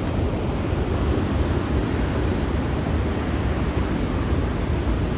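Steady rushing of a glacial outburst flood torrent, fast meltwater surging past, with some wind buffeting the microphone.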